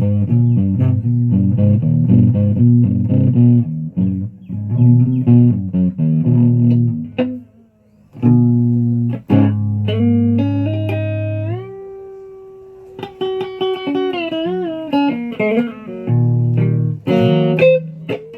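A guitar played with a pick, improvised: repeated picked low notes for the first seven seconds, a brief pause, then held notes bent up and down with vibrato.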